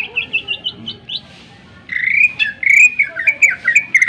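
A cucak ijo (leafbird) singing: a quick series of short rising chirps for about a second, then after a short pause a loud run of fast warbled notes.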